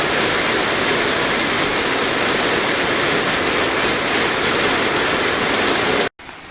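Heavy rain falling, a steady loud hiss that cuts off suddenly near the end.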